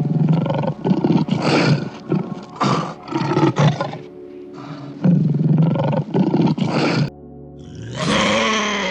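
A big cat roaring and growling in a series of rough, rasping calls over background music. About a second before the end, a different call with a falling pitch begins.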